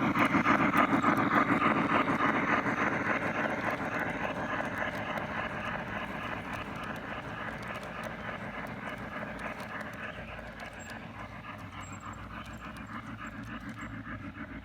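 G scale model train rolling along garden track, its wheels making a fast, steady clatter over the rails that grows fainter as it moves away.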